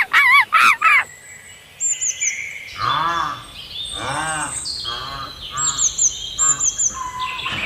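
Birds calling: a fast run of repeated rising-and-falling calls that stops about a second in, then high quick chirps over a string of repeated arching calls, several birds together.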